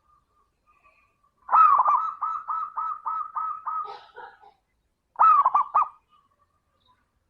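Zebra dove (perkutut) cooing. A rolling run of about eight quick coos begins about a second and a half in, and a shorter phrase of three coos follows near the end.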